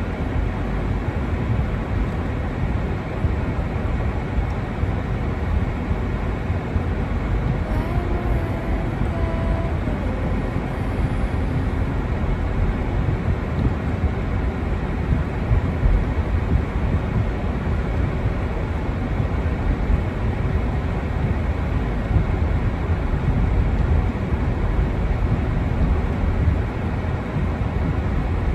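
Wind rumbling and buffeting on the microphone in a snowstorm: a steady low roar that flickers constantly. A faint brief tone comes in about eight seconds in.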